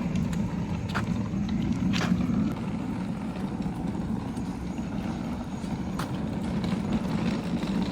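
Steady low rumble of a vehicle on the move, with a few faint clicks and knocks.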